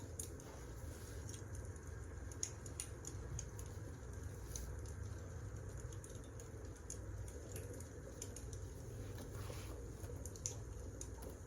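Wood fire crackling, with irregular sharp pops and snaps of burning logs over a low steady rumble.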